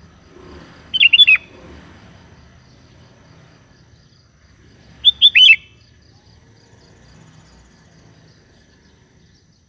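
Sooty-headed bulbul calling: two short bursts of a few quick, loud, falling notes, about four seconds apart.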